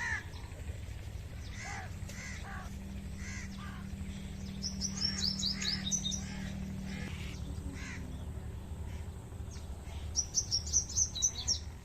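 Birds calling: short repeated calls about twice a second, with two quick runs of high chirps about five and ten seconds in, over a steady low hum.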